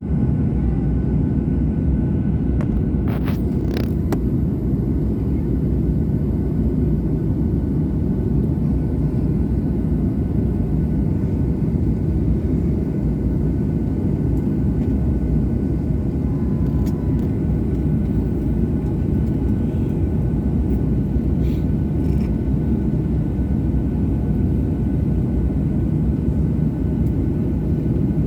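Steady low rumble of an airliner's engines heard from inside the cabin, with a few faint clicks about three to four seconds in.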